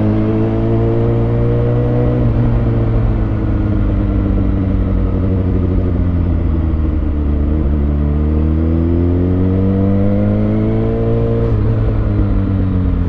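2020 Kawasaki Ninja ZX6R's inline-four engine, fitted with decat headers and a Lextek SP7C carbon exhaust, riding under load. The revs climb for the first two seconds and ease off, then climb again from about eight seconds in before dropping sharply near the end.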